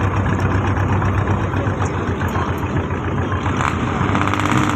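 Purse-seine fishing boat's engine running steadily, with a constant low hum under a wash of noise.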